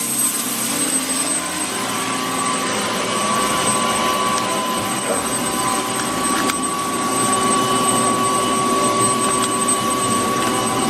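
Helicopter running on the ground, a steady engine whine over rotor and engine noise that steps up a little and gets slightly louder about two seconds in.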